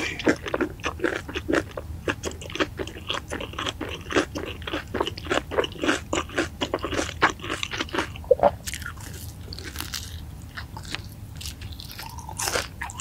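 Close-miked crunching and chewing of crispy fried chicken: a rapid run of crackling crunches that thins out about eight seconds in, with a few more crunches near the end.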